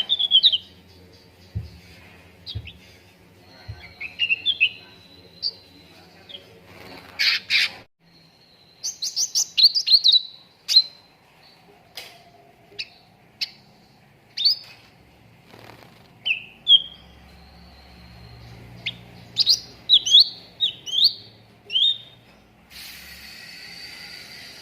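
Recorded song of a cucak ranting: a lively string of short chirps and quick whistled notes that slide up or down, some in rapid clusters, played as a prompting call for training caged songbirds.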